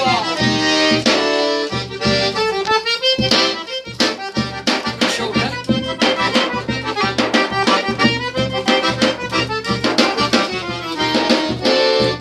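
Forró band playing an instrumental accordion passage over a steady percussion beat.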